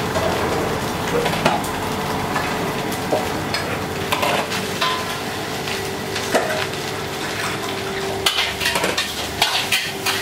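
Food frying in a wok, a steady sizzling hiss, with scattered clinks and taps of utensils and dishes.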